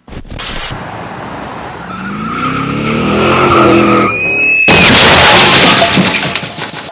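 Small hatchback's engine revving higher and higher over a few seconds as its wheels spin on packed snow. After a brief high tone, a loud rushing noise takes over and cuts off near the end.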